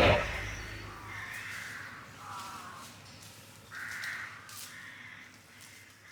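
A crow cawing several times, in short separate calls, just after a rock song stops.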